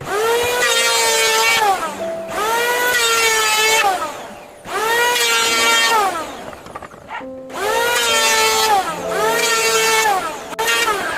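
Electric power tool run in repeated bursts of about two seconds, five or so times: each time the motor spins up to a steady high whine, then winds down as the trigger is released. Background music with held notes plays underneath.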